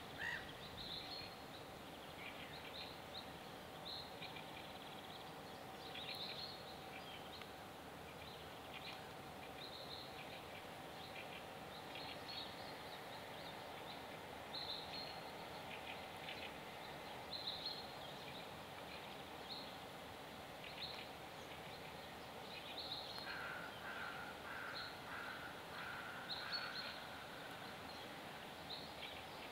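Outdoor ambience with scattered bird chirps and calls, and a run of repeated bird notes, about two a second, near the end.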